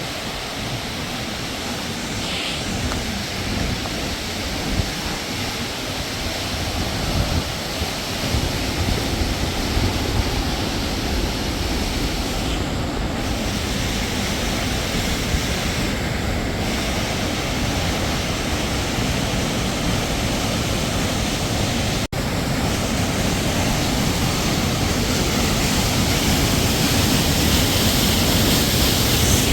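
Waterfall: a steady rushing of falling water with a low rumble underneath, growing slightly louder toward the end.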